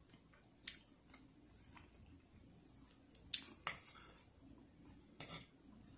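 Quiet chewing of a mouthful of pierogi and sausage, with several short clicks and mouth smacks.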